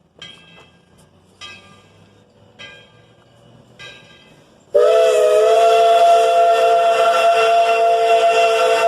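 Steam locomotive bell ringing four slow strokes, then the engine's chime steam whistle cutting in loud about halfway through and held as a steady multi-note chord.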